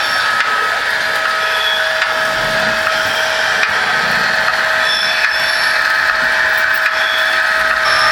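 Märklin HO model locomotive running on three-rail track: a steady electric-motor whine over the rolling rattle of the wheels.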